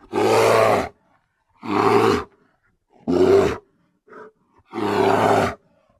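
Bear roaring: four loud roars, each under a second long, with silence between them and a short grunt before the last one.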